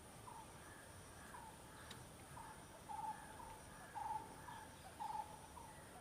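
A bird repeating a short call about twice a second, with three longer, louder notes in the second half, over a steady thin high-pitched hum.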